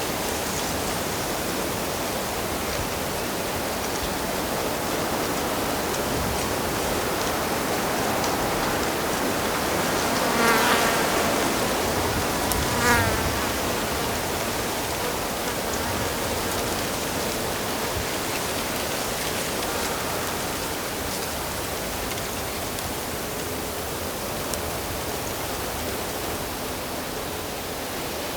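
Steady rush of a flowing stream, with a flying insect buzzing past close by twice, about ten and thirteen seconds in.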